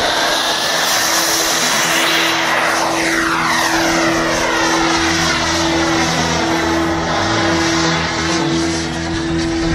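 Turbine-powered model jet aircraft flying past, its engine noise sweeping as it goes by, over a steady hum.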